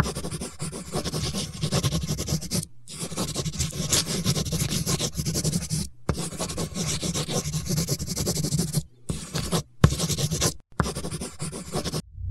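Scratching and rubbing noise in six short stretches, each cut off abruptly.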